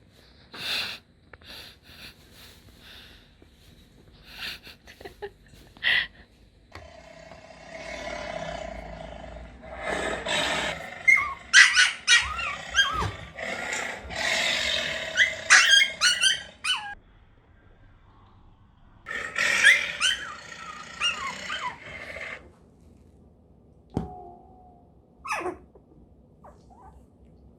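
Recorded lion roars played back in long stretches, with high squeaky rising and falling cries over them. There are a few light taps before the first stretch.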